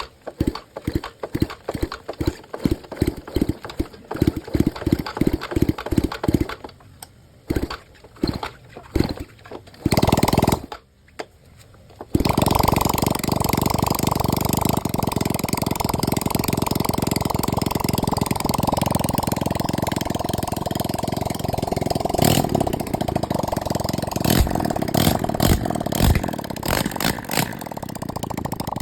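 Yamaha Sirius four-stroke single-cylinder engine being started after a top-end rebuild. A run of evenly spaced pulses, about two or three a second, is followed by a few short bursts. About 12 seconds in it catches and settles into a steady idle, with a few brief blips of throttle near the end.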